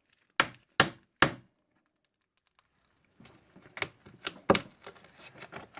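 Slime being handled by hand: three sharp pops in the first second or so, then after a short silence a run of small, irregular crackles and clicks.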